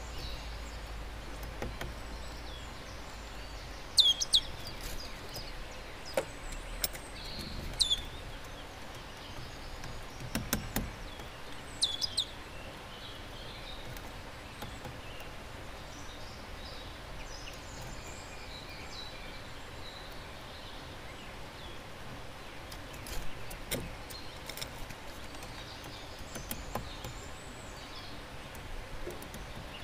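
Small garden birds calling: several sharp, steeply falling chirps in the first twelve seconds, mixed with a few clicks, then fainter twittering over steady outdoor background noise.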